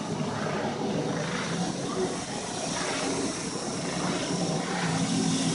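Steady drone of car engines in slow traffic, with an even background hiss.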